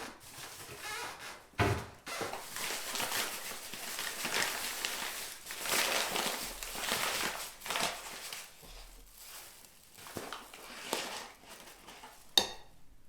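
Kitchen work with dishes and utensils: a knock about two seconds in, several seconds of uneven scraping and rustling, and a sharp clink near the end.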